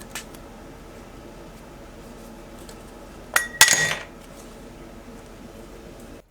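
Cookware clinking: a sharp metal clank about three and a half seconds in that rings briefly, with a couple of lighter taps near the start, over a steady background hiss.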